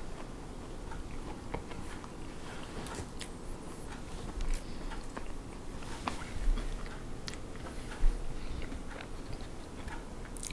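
A person biting and chewing crispy-crusted baked cheese snack bites (Doritos Loaded Cool Ranch), with scattered small crunches and clicks and a few soft low thumps.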